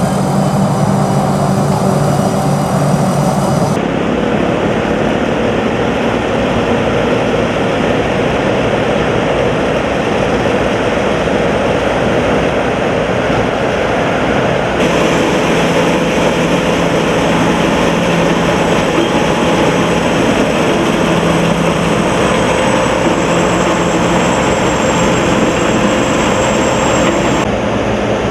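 Sakpattana corn combine harvester running steadily and loudly, its engine hum mixed with the dense rattle of the harvesting machinery. The sound changes abruptly three times, at about 4, 15 and 27 seconds in.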